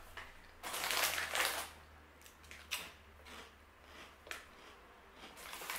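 Crunchy rice-flour crisps being chewed: a burst of crunching about a second in, then a few single crunches, with more crunching near the end.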